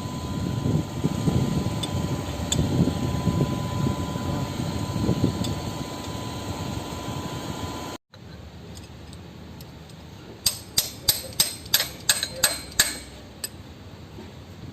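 Low, uneven mechanical rumble, then after a sudden cut a quick run of about nine sharp metallic clicks, roughly four a second, from hand tools working on a truck diesel engine's valve gear.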